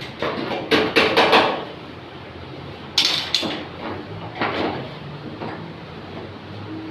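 Hammer blows beating out a dent in a Suzuki Alto's sheet-metal body panel. A quick run of four strikes comes about a second in, then a couple more near three seconds and another pair near four and a half seconds.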